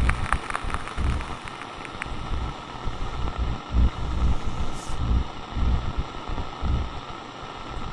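Walkie-talkie static: a steady hiss with irregular low rumbling, and a few sharp crackles in the first two seconds.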